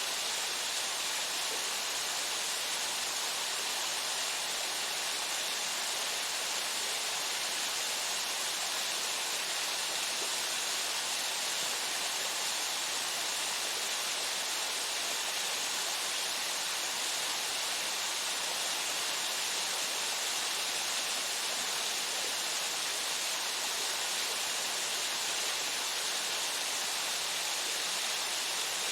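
Waterfall splashing steadily: a constant hiss of falling water, strongest in the upper range, with no breaks or changes.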